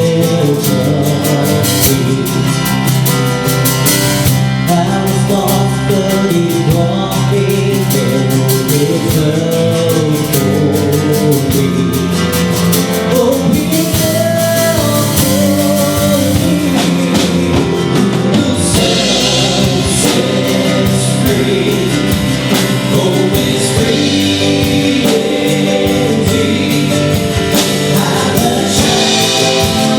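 A gospel song: group singing over a band with a drum kit, with cymbal crashes about two-thirds of the way through and again near the end.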